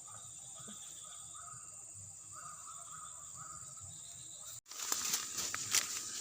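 Steady high drone of crickets with short calls repeating about twice a second. About four and a half seconds in the sound cuts out abruptly and gives way to louder crackling and rustling with sharp clicks.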